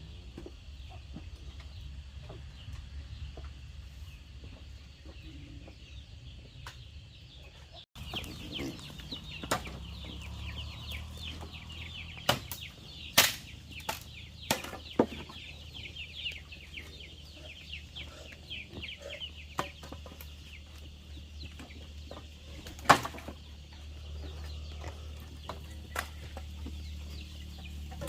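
Chickens clucking, with many chicks peeping in quick high chirps for several seconds from about eight seconds in, and a few sharp knocks.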